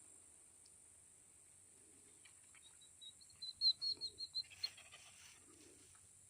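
A bird calling: a quick run of about six or seven short high chirps lasting about a second, starting about three and a half seconds in, over a steady high hiss.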